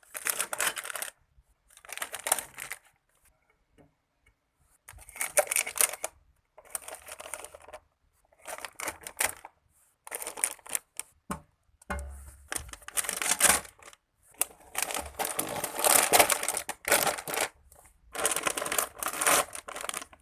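Plastic packaging crinkling and rustling in repeated short bursts as groceries are handled, with brief quiet gaps between them.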